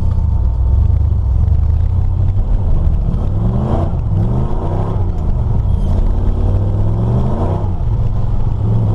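Chevy S10 pickup's swapped engine running under way, a steady drone that then revs up and drops back about three times, the last rise the longest. It runs with its ignition timing advanced far past stock, which the owners suspect is needed for a non-stock cam.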